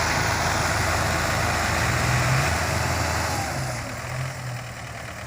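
Tractor diesel engine running loud with a rapid pulsing beat, then gradually dying away from about three and a half seconds in.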